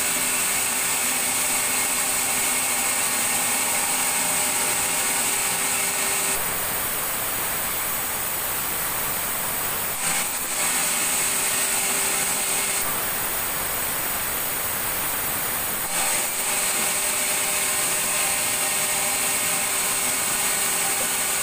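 Sawmill machinery running with a steady mechanical noise, a held hum and a high hiss. The sound shifts suddenly several times, about 6, 10, 13 and 16 seconds in.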